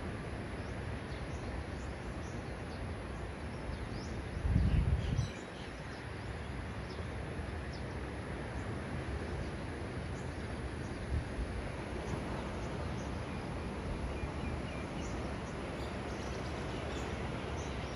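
Steady outdoor background noise with scattered faint bird chirps. A brief low rumble about four and a half seconds in.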